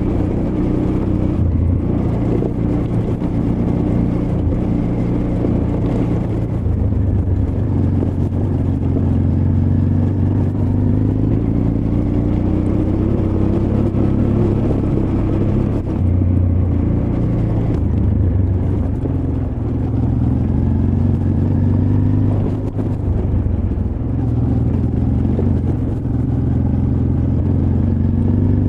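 Honda Transalp XL600V's V-twin engine running under way off-road, its pitch rising and falling as the throttle is opened and closed.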